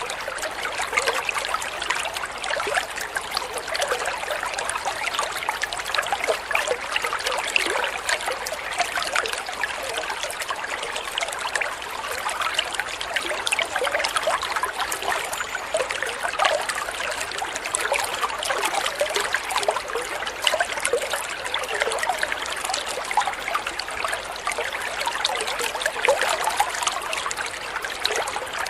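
Water flowing and trickling steadily: a continuous babbling of many small splashes and bubbles, mostly in the middle and upper pitches.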